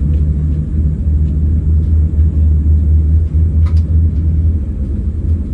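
Steady low rumble of a Boeing 787-8's Rolls-Royce Trent 1000 engines during engine start, heard from inside the passenger cabin, with a faint click about three and a half seconds in.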